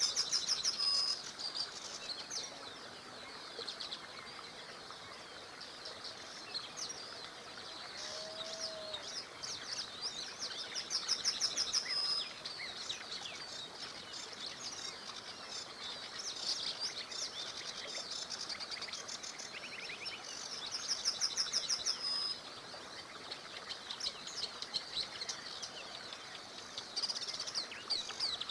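Several songbirds singing and chirping over the steady rush of a small river. One bird repeats a fast trill of rapid notes three times: near the start, about halfway through and about three quarters of the way through.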